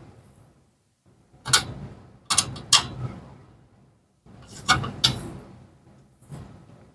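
About six sharp knocks of hard objects, each dying away quickly: one, then two close pairs, then a fainter one near the end.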